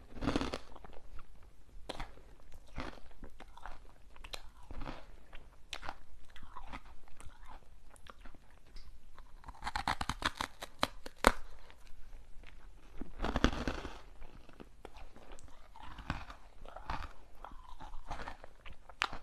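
Close-miked chewing and crunching of hard sweets, with scattered sharp crackles and two denser bursts of crunching about ten and thirteen seconds in.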